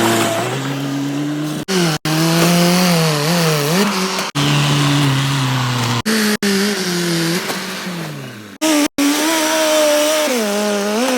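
Engine running and revving, its pitch rising and falling, in short spliced pieces with abrupt cuts to silence between them.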